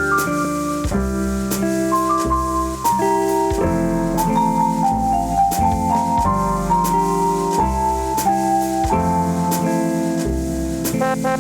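Instrumental jazz ballad passage led by piano, a melody line moving stepwise over sustained chords with light percussion.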